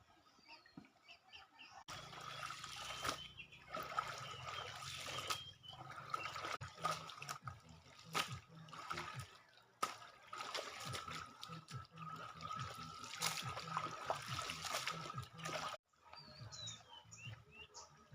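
River water splashing and trickling with irregular slaps and splashes, as clothes are washed by hand in the river. It starts abruptly about two seconds in and cuts off suddenly near the end. Faint bird chirps are heard before and after.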